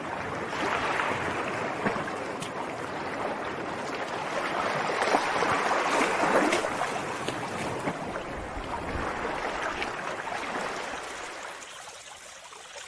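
Rushing water: a steady noise that swells about a second in and again around five to six seconds in, then eases off near the end.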